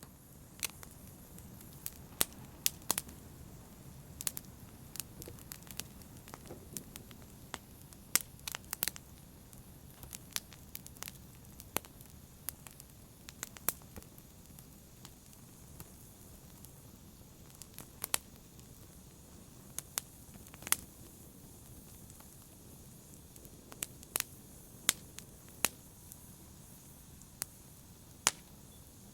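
Fireplace fire crackling: irregular sharp pops and snaps, some in quick clusters, over a soft low rush of the flames.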